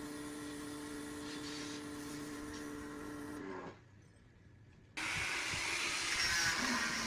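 An electric power tool's motor running with a steady whine, stopping abruptly about three and a half seconds in. After a short lull a louder, hissing machining sound starts.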